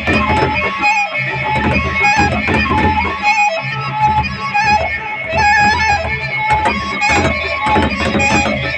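Gendang beleq ensemble playing: a bamboo flute (suling) melody over large double-headed drums beating a steady pulse, with many sharp metallic strokes from cymbals.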